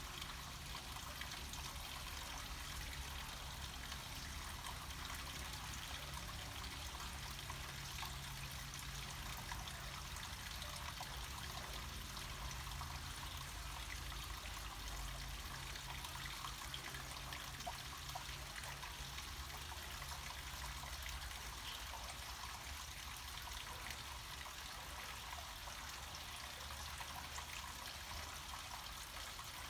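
Water flowing steadily down a small mountain watercourse: continuous trickling and splashing with a steady low rumble beneath.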